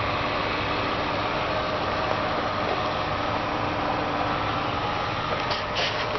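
2006 Saturn ION coupe's engine idling steadily, with a few short clicks near the end.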